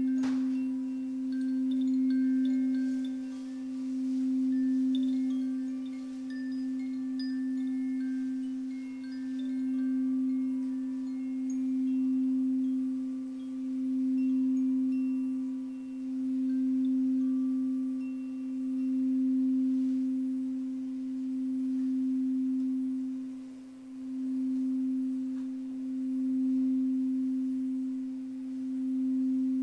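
A singing bowl sounding a steady low tone that swells and fades about every two and a half seconds. A light strike at the start, then scattered high chime notes over the first two-thirds.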